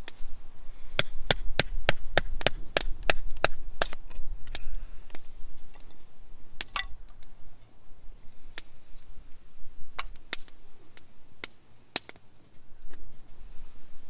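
A run of sharp knocks, about four a second for the first few seconds, then scattered single knocks, like wood being chopped or struck.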